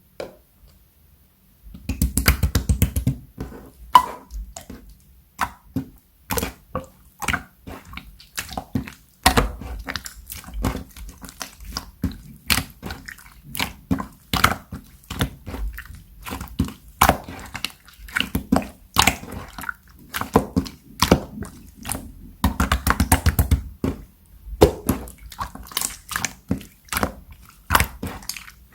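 Slime being squeezed and pressed by hand, giving many small sticky pops and clicks, some in quick runs. The sounds start about two seconds in.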